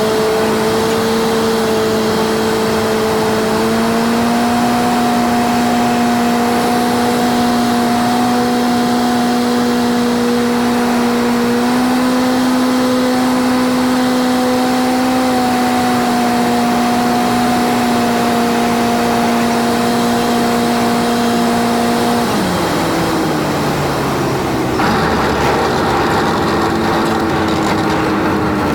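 Cessna 152's four-cylinder piston engine droning steadily during the landing approach, sped up so its pitch is raised. About 22 seconds in the power comes off and the engine note drops sharply and keeps sliding down, and a louder hiss comes in a few seconds later.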